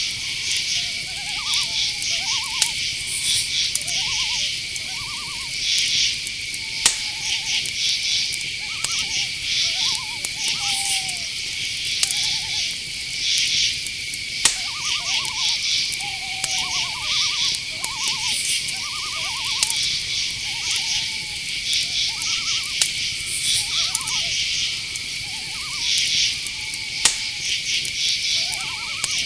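Night chorus of crickets and other insects: a steady high trill with pulsing chirps above it. Under it, many short wavering calls repeat throughout, and a few sharp clicks sound about 7, 14 and 27 seconds in.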